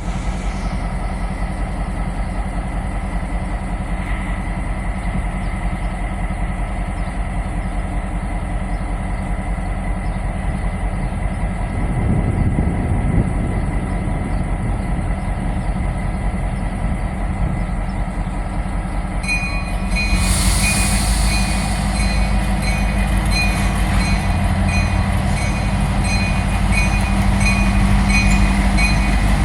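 Local freight train with its diesel locomotive running steadily. About two-thirds of the way in, a repeating high ringing starts and keeps on.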